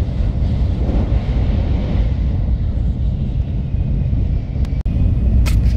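Steady low rumble of an N700S Shinkansen train running at speed, heard from inside the carriage, with a momentary dropout just before five seconds in.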